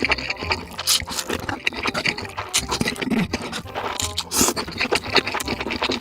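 Close-miked mukbang eating sounds: noodles being slurped and chewed, with many quick irregular clicks and a few longer slurps.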